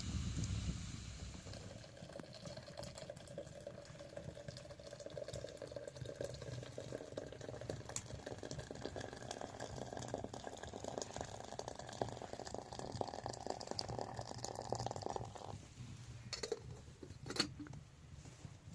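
Water pouring steadily into a container, the pitch slowly rising as it fills. It stops about fifteen seconds in, followed by two sharp knocks.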